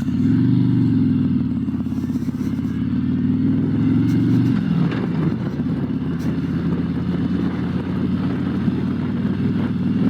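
Harley-Davidson Road Glide's V-twin engine running under way, a steady low exhaust note. Its pitch drops about halfway through, then holds steady again.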